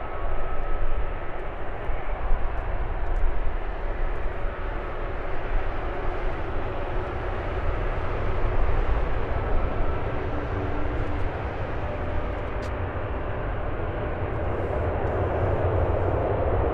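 Airbus A340-300 airliner's four CFM56 turbofan engines heard during its landing: a steady jet rumble with faint whining engine tones, growing a little louder near the end.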